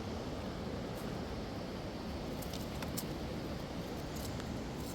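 Steady rush of a fast mountain river's flowing water, with a few light clicks about halfway through.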